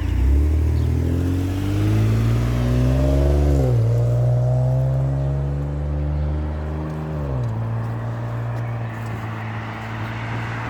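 Ford Explorer's exhaust, with MagnaFlow mufflers and the resonator removed, as the vehicle accelerates. The engine note climbs in pitch, drops suddenly as the transmission shifts up, climbs again and drops at a second upshift, then holds steady.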